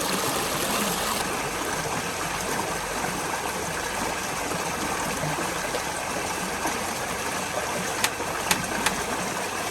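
Steady rushing of flowing water, like a stream, with three short sharp clicks or knocks near the end.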